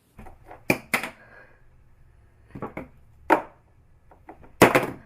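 Irregular sharp knocks and taps, about eight of them, the loudest near the end.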